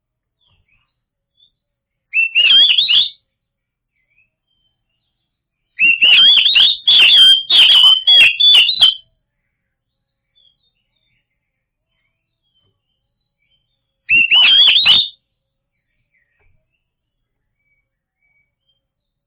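Oriental magpie-robin singing: three loud bursts of quick, rich whistled phrases, the middle one the longest at about three seconds, with silent pauses between.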